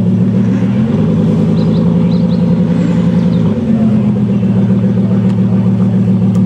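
Bugatti Veyron's quad-turbo W16 engine running steadily through a Quicksilver titanium exhaust, a low drone that shifts pitch abruptly about a second in and again about halfway through.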